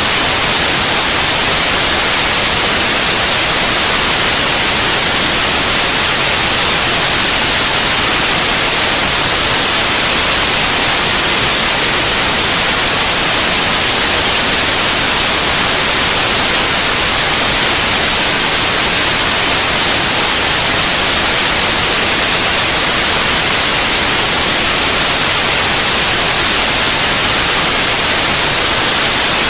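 Steady, loud white noise: an even, unchanging hiss, brightest in the high end, played as a sleep aid for babies.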